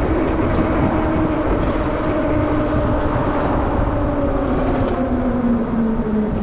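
Denzel Samurai electric dirt bike being ridden: a steady motor whine that slowly drops in pitch as the bike eases off, over heavy wind rumble.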